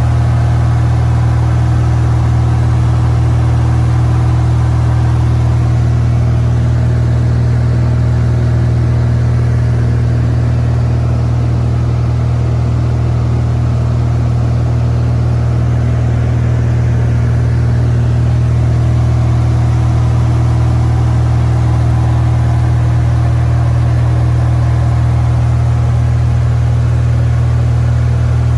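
Cessna 172's six-cylinder Continental O-300 engine and propeller droning steadily in the cabin at climb power, a loud, even low hum with no change in pitch.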